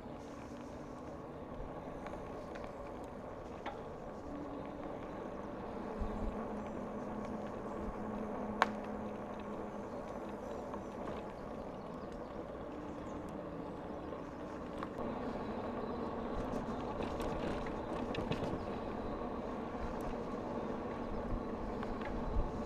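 Bicycle rolling along: steady tyre and drivetrain noise from the moving bike, with a sharp click about eight and a half seconds in.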